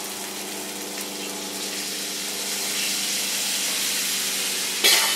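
Water splashed onto a hot griddle under chicken wings and vegetables, hissing and sizzling as it flashes to steam. The hiss swells a little midway, with a sudden louder burst near the end.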